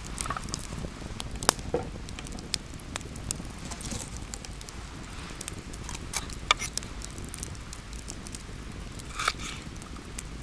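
Wood campfire crackling, with scattered sharp pops.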